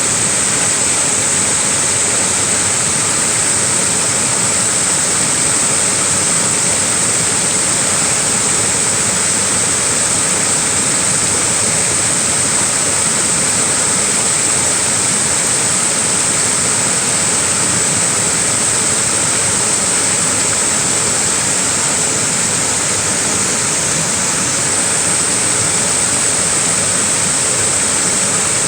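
Small waterfall, a steady rush of falling water with a bright hiss, unchanging throughout.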